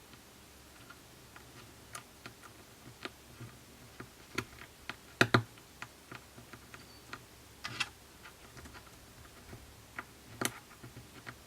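Light, irregular clicks and taps of small tools and parts being handled on an opened iPhone 6s during reassembly, with a louder double click about five seconds in and another sharp click near the end.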